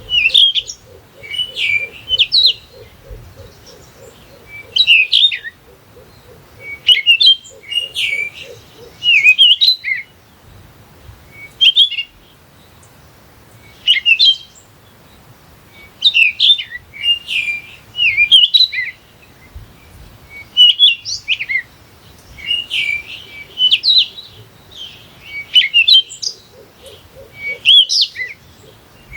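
A songbird singing close by: short phrases of quick, rising-and-falling chirps, repeated every second or two. Beneath it, a faint, rapid low pulsing runs through the first third and returns briefly near the end.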